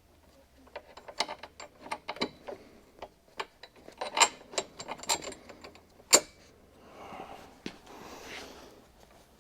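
Small metal hardware clinking and rattling as nuts, washers and bolts are handled, in a run of sharp clicks, the loudest about six seconds in, then softer handling noise.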